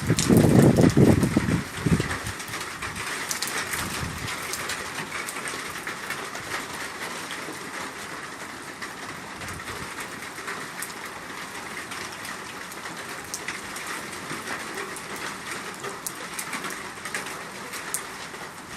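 Steady heavy rain falling and pattering on surfaces in a severe winter downpour. A loud low rumble lasts about the first two seconds.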